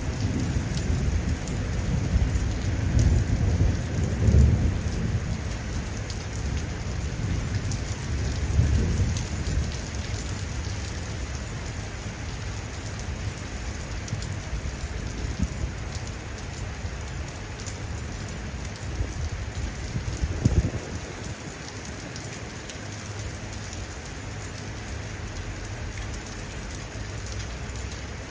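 Steady rainfall with low rolls of thunder rumbling through the first ten seconds or so, and a short sharp thump about twenty seconds in.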